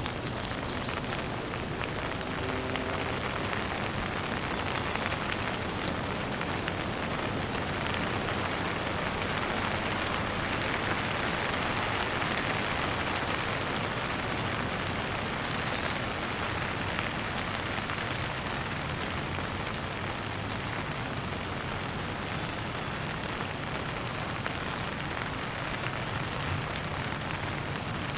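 Steady rain falling, an even hiss of drops that swells slightly near the middle. A short burst of high bird chirps comes about halfway through.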